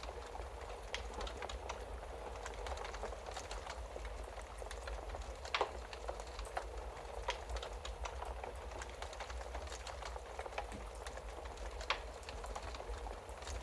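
Wood fire crackling in a fireplace: a steady hiss with scattered pops and snaps, two of them louder, about five and a half and twelve seconds in.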